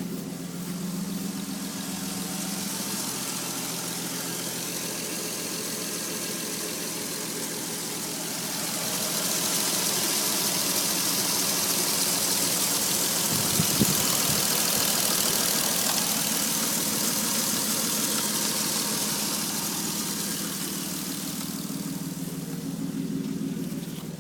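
1993 Toyota Supra Twin Turbo's twin-turbo inline-six running steadily at idle on its first start after three years off the road. From about a third of the way in to near the end it runs louder, with more hiss, and there is one sharp tick in the middle.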